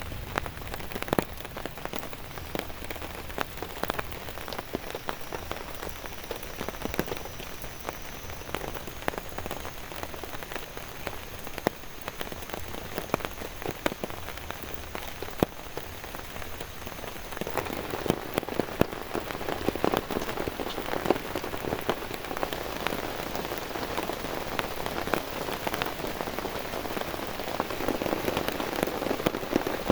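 Heavy rain falling, with many separate drops striking a surface close by; it grows louder and fuller a little past halfway.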